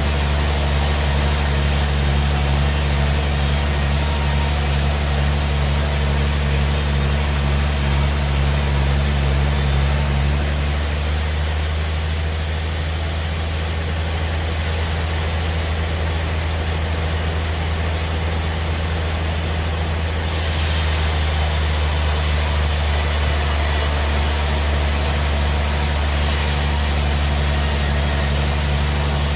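Band sawmill machinery running steadily: a low hum over a wash of noise. About ten seconds in the sound changes, the high hiss dropping away and the hum shifting lower in level, and about ten seconds later it returns to the earlier sound.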